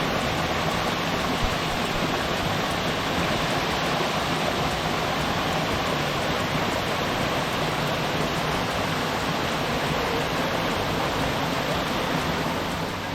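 Small hot-spring waterfall, water cascading over rocks in a steady, unbroken rush.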